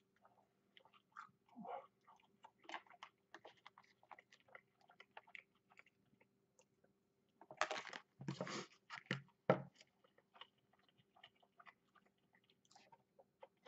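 A person chewing and biting food, with many small mouth clicks and crunches. About seven and a half seconds in, a louder noisy stretch lasts about two seconds and ends in two sharp knocks.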